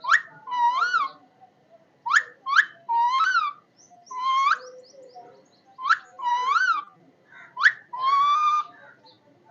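Parrot calling in a repeating phrase: two short rising whistles, then a longer wavering note, the phrase coming round about every two seconds.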